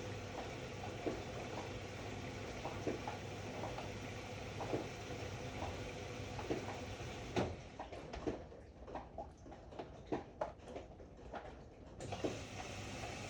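Ariston AML125 washer-dryer running a wash: a steady low hum and swish, with soft knocks about once a second from the turning drum. About halfway through the hum drops away for some four seconds while the knocks go on, then comes back.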